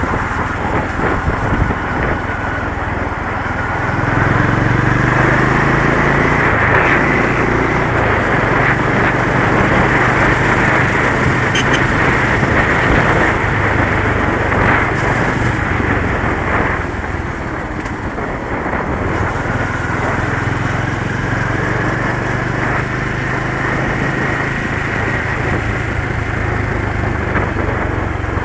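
Motorcycle engine running on the move, its pitch climbing slowly twice as it accelerates, under a steady rush of wind and road noise.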